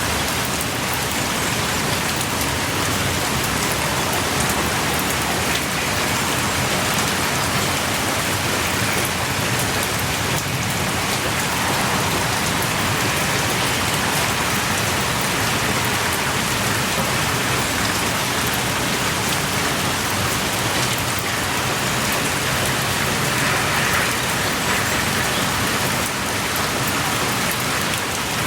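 Heavy rain pouring steadily, with drops pattering on surfaces close by.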